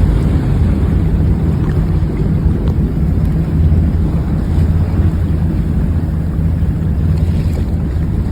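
A yacht's engine drones steadily while under way, mixed with rushing water and wind buffeting the microphone.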